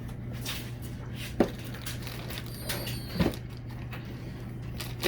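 Handling of a vacuum's parts and packaging during unboxing: a few sharp knocks and clacks, the loudest about a second and a half in, a cluster near three seconds and another near the end, over a steady low hum.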